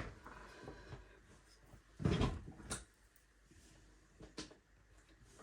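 Handling noise from a boxed craft kit being moved: a soft bump about two seconds in, ending in a click, and a fainter click later.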